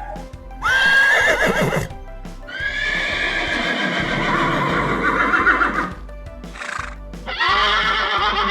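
Horse neighing: three whinnies with a wavering pitch, a short one about a second in, a long one from about two and a half to six seconds, and another near the end. Background music with a steady low beat runs underneath.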